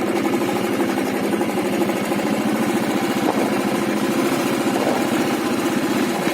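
Motorcycle engine running steadily with an even, fast firing pulse.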